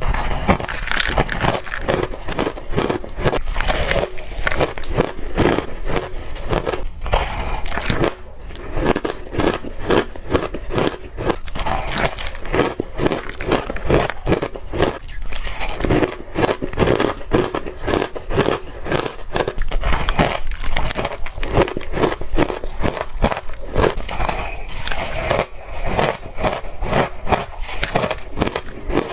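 Close-miked crunching of a person biting and chewing cupcake-shaped blocks of white ice, with crisp cracks following one another several times a second throughout.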